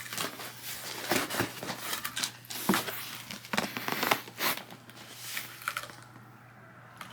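Packaging being handled, crinkling and rustling in a run of irregular sharp crackles that dies away about six seconds in.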